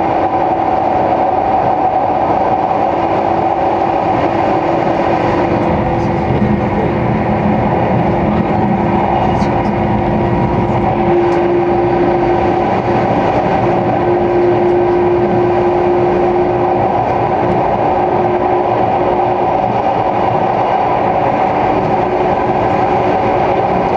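Onboard running sound of a 485-series electric limited express train at speed: a steady rumble of wheels on rail with a steady droning hum from the train's equipment.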